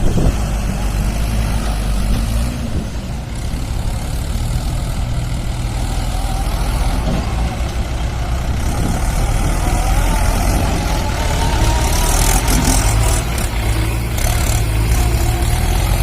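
Heavy diesel engines of a JCB 3DX backhoe loader and a Mahindra 475 DI tractor running steadily while sand is loaded, with a faint whine that rises and falls in the middle and a few sharp knocks later on.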